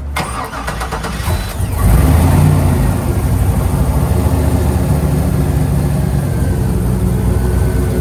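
1972 Chevrolet K5 Blazer cold start: the starter cranks for about a second and a half, the engine catches and revs up about two seconds in, then settles into a steady idle.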